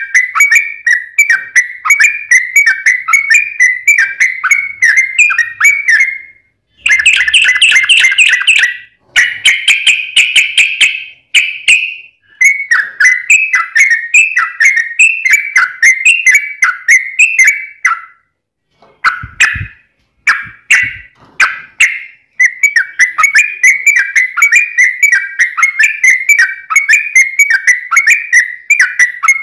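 Yellow-vented bulbul (trucuk) singing: long runs of rapid, repeated whistled notes, about three a second, broken now and then by short pauses.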